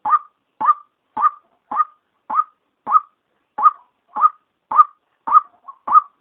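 Female white-breasted waterhen calling: a short, sharp note repeated steadily, a little under twice a second.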